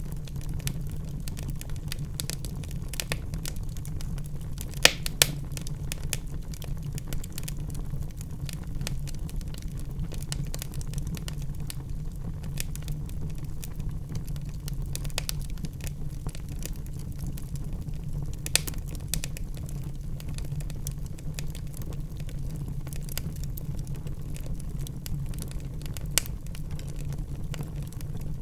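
Wood fire crackling in a fireplace: irregular sharp pops and snaps over a steady low rumble of the flames, with a couple of louder pops about five seconds in.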